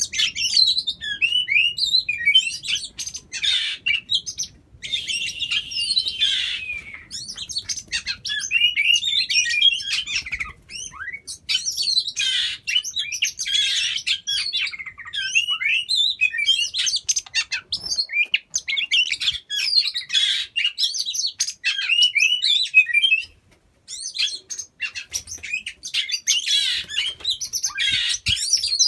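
Oriental magpie-robin (kacer) singing: a rapid, varied stream of whistles and chirps, broken by a couple of brief pauses.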